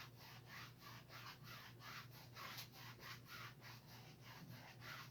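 Paintbrush bristles rubbing acrylic paint onto canvas in quick, even strokes, about three a second, faint and scratchy.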